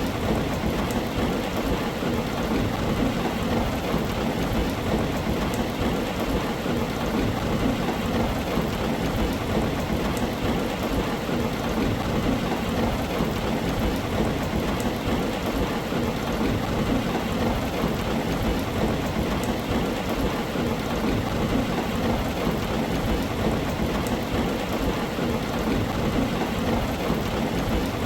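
Heavy rain drumming steadily on a tin roof, with a constant low rumble underneath and faint individual drop ticks.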